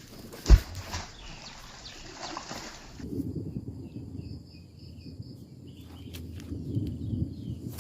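Small birds chirping in short repeated notes over a low rumble, with one sharp knock about half a second in.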